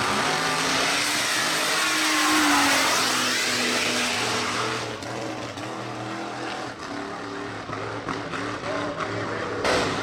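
A drag-racing truck at full throttle passes close by, its engine note dropping in pitch as it goes past, then fading away. A brief loud burst comes near the end.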